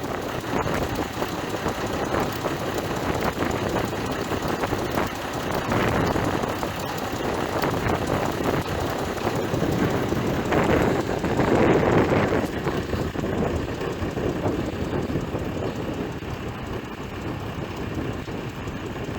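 Galion 503 grader's UD-236 diesel engine running steadily, with a rise in loudness about six seconds in and a longer, louder swell around eleven to twelve seconds in.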